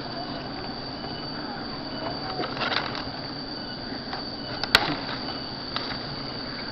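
A steady high-pitched whine over a low hiss, broken by a sharp knock about two and a half seconds in and a louder crack just before five seconds.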